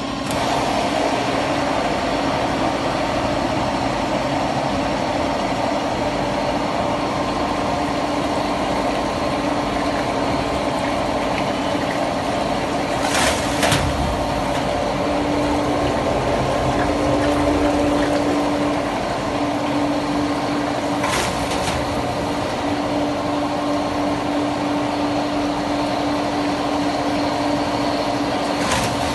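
Machinery running steadily with a constant hum, broken by three short sharp bursts: about halfway through, again a few seconds later, and near the end.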